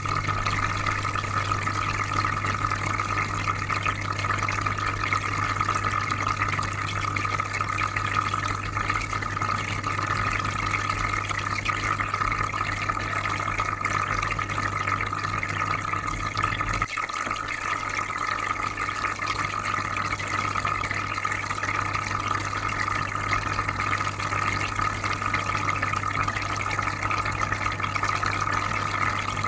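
Aquarium filter humming steadily under a constant wash of bubbling water. The low hum eases slightly about halfway through.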